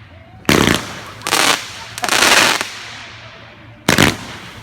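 Multi-shot consumer firework going off: four sharp bangs with crackle. The first three come less than a second apart and the last about two seconds later.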